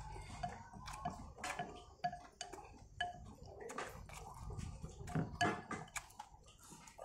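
Close-up chewing of noodles and vegetables: irregular wet smacks and clicks from the mouth, with light taps of chopsticks against the bowl.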